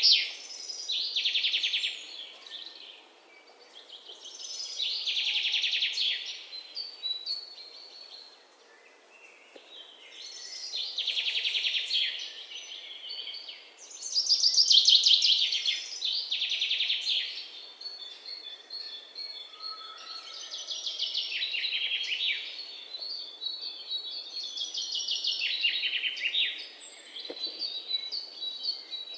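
A songbird singing: a rapid, high trilled phrase of about two seconds, repeated every few seconds, with fainter chirps in between.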